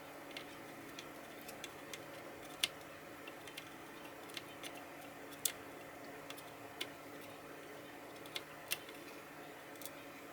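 Irregular light clicks and taps, as of small tools being handled on a workbench, over a steady low electrical hum.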